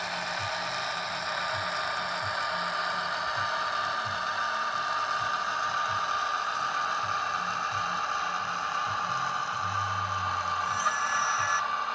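N gauge model of a British Rail Class 60 diesel locomotive running, its DCC sound decoder playing the diesel engine sound through a tiny on-board speaker, with a steady whine and mechanical rattle from the model running on the track. A brief high tone comes in near the end.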